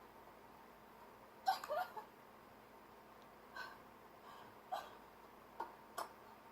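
Short, hiccup-like gasping sobs from a person in shock after a crash, about five of them spread over the few seconds.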